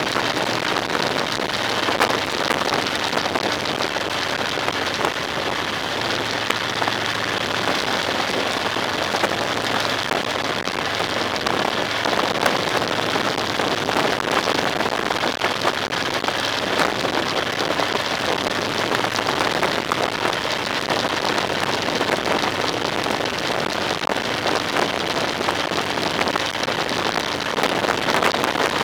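Steady rushing noise of a vehicle on the move, with many small ticks scattered through it.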